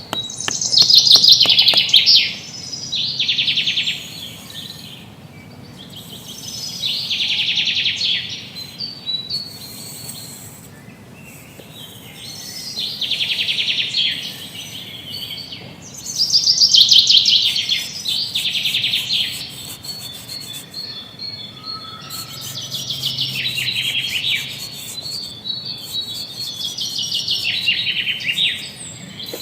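Birds singing: loud bursts of rapid, trilled chirps come in phrases every few seconds, with quieter chirping in between.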